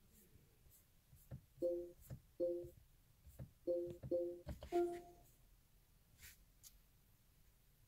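Short electronic beeps from a car's infotainment touchscreen, five of them in about three seconds, the last one higher, with soft taps between them as buttons on the screen are pressed.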